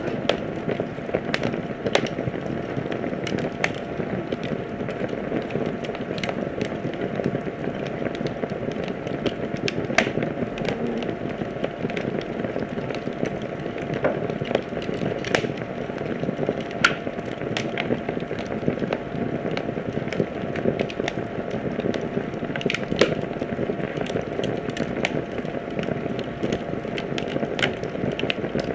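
Wood fire crackling in a fireplace: a steady hiss of burning broken by irregular sharp pops and snaps, a few of them louder than the rest.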